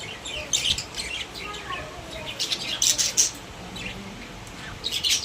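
Pet budgerigars chirping in short, high bursts of chatter that come in clusters with brief gaps between them.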